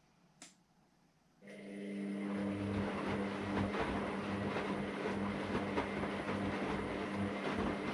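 AEG Lavamat Turbo washer-dryer starting up after a pause: a single click, then about a second and a half in its motor comes on and settles into a steady hum with a busy, rattling clatter over it.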